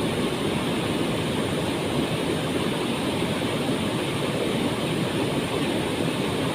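Waterfall: falling water making a steady, unbroken rush, heaviest in the low-middle range.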